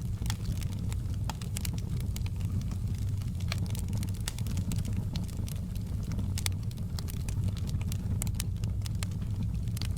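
Campfire crackling, with sharp snaps and pops at irregular intervals over a steady low rumble.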